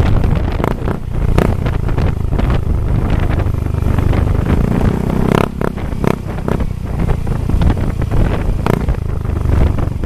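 Yamaha Mio Soul i125 scooter's single-cylinder engine running loud through an MT8 V3 aftermarket exhaust, a dense low rumble with scattered sharp crackles.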